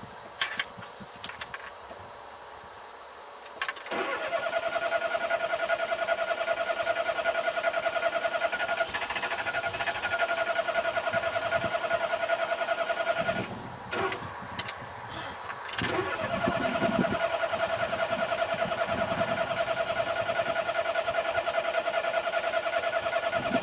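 Car's starter motor cranking the engine in two long attempts, each a steady whine with a fast pulsing, about nine and eight seconds long with a short break between; the engine does not catch, a car that won't start. A few light clicks come before the first attempt.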